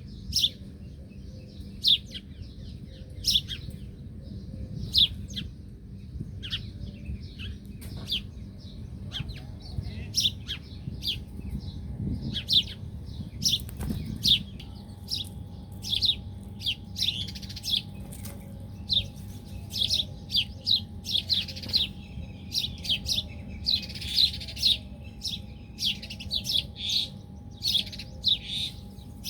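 A group of small birds chirping: many short, sharp, high chirps, coming thicker and faster in the second half.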